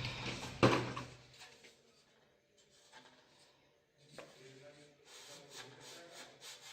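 A sharp knock under a second in, then a lull, then faint scattered rubbing and scraping sounds.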